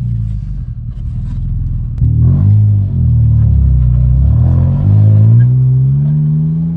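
BMW E39's 2.5-litre inline-six under way: a steady low drone, then about two seconds in it gets louder and the pitch climbs, dips briefly and climbs again as the car accelerates. The driver says the engine has been running poorly and blames it on low fuel.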